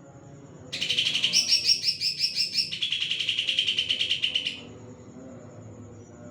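Cucak ijo (green leafbird) singing a fast trill of rapidly repeated notes for about four seconds, starting about a second in; the notes are higher at first and drop lower about halfway through.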